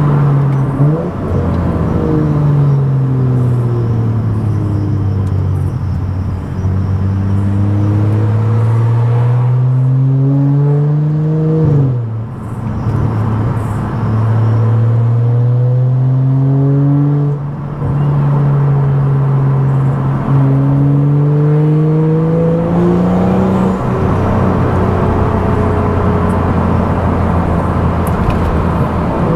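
Tuned BMW F10 535i's turbocharged 3.0-litre straight-six with a loud aftermarket exhaust, driving. It first eases off, then pulls up through the revs in three long climbs broken by two quick gearshift dips about a second from halfway and about two-thirds in. Near the end it settles to a steady cruise.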